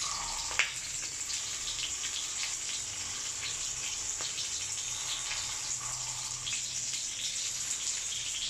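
Sliced onion, garlic and ginger sizzling in hot oil in a stainless steel wok, a steady hiss with scattered small crackles as the aromatics sauté.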